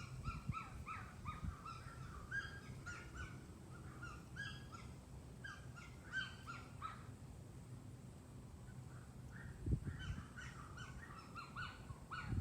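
Small bird chirping in short, quick calls, several a second, with a short pause past the middle. A brief low thump comes just before the calls resume.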